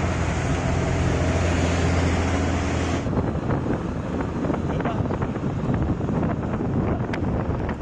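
A heavy vehicle's engine runs with a steady low hum. About three seconds in, the sound cuts to wind buffeting the microphone, with crackling and clicks over road noise.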